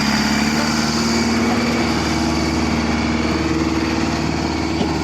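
Tractor diesel engine running steadily, with a thin high whine above it.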